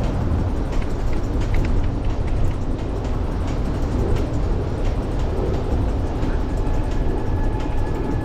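Wind buffeting the microphone of a camera riding along on a moving beach cruiser bicycle: a steady low rumble with a hiss above it and faint scattered ticks.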